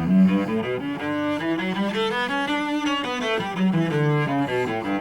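Cello playing a scale up and back down in separate bow strokes, mixing longer notes with runs of short, even notes: a quarter note followed by six eighth notes.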